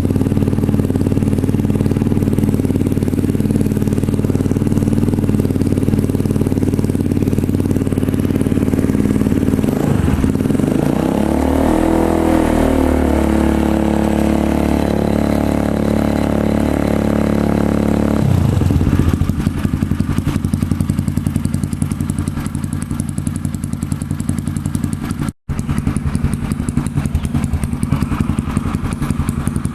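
Honda CRF dirt bike engine running through a Triton CR-5 full-stainless aftermarket exhaust: idling steadily, revved up about ten seconds in and held at higher revs for several seconds, then dropping back to idle. The sound cuts out for an instant near the end.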